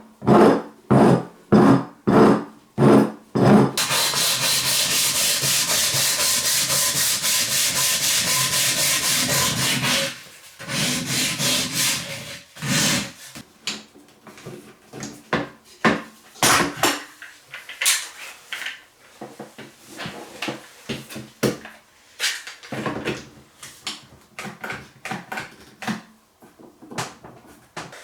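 Wood being worked by hand, strokes rubbing against a wooden chisel handle. It starts at about two strokes a second, breaks into a fast, even run of strokes for about six seconds, then goes on with slower, uneven strokes.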